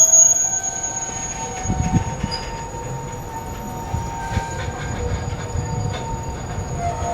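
Container train rolling slowly as it brakes to a stop, its steel wheels squealing in several steady high tones over a low rumble of the wagons, with a few light knocks.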